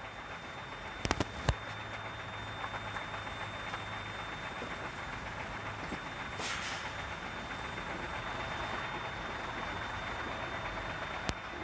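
Container truck running with steady engine and road noise, with a few sharp clicks about a second in.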